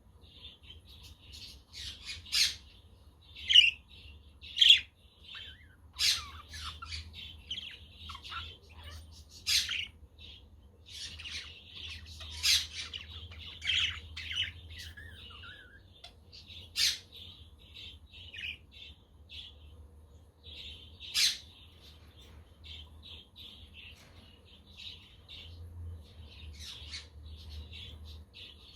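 Budgerigars chattering and warbling continuously, with about nine louder, sharp squawking calls cutting through.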